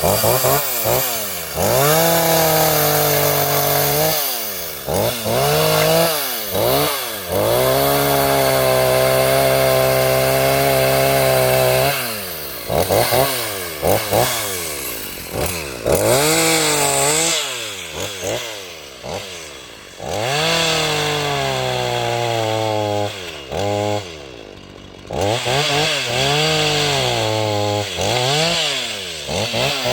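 Salemmaster two-stroke gasoline chainsaw revved up and down over and over, the throttle opened and released. It is held at full speed a few times, longest for about four seconds about a third of the way in, and drops back toward idle between revs.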